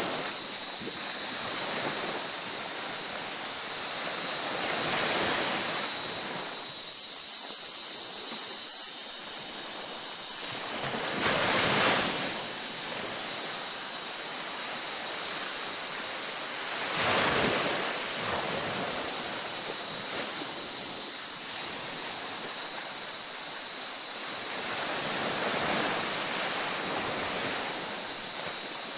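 Ocean surf on a beach: a steady wash of waves, with four louder waves breaking roughly every six to eight seconds, the second the loudest. A faint steady high-pitched tone runs underneath.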